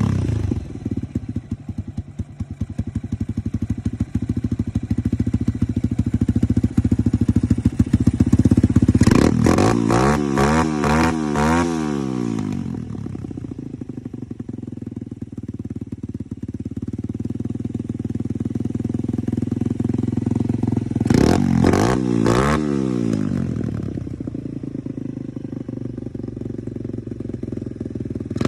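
150cc Chinese dirt bike engine idling, then revved in a run of quick throttle blips about a third of the way in and again about three quarters in, while its new Nibbi racing carburettor is being tuned. It picks up revs cleanly, with no bog or lag.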